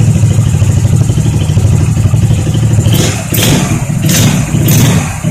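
Engine from a Majestic 250 running steadily, fitted into a Zim 350. About three seconds in, a few short hissing, clattering bursts come over it, and the engine dips briefly near the end.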